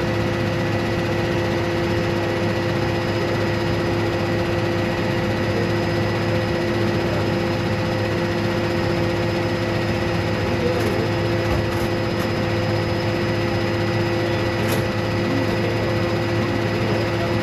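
A vehicle engine running steadily, a constant drone with unchanging pitch.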